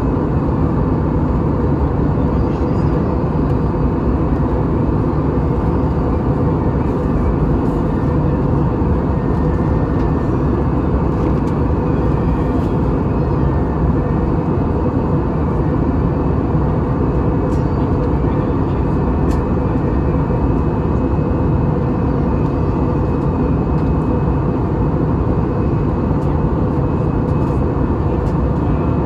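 Steady jet engine and airflow noise of an Airbus A320 in flight, an even rush with a faint steady hum and no changes.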